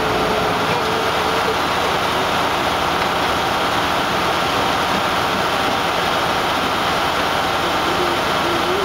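Hydraulic drain-cleaning pump running steadily while clearing a clogged storm drain: a loud, constant mechanical running noise with no breaks.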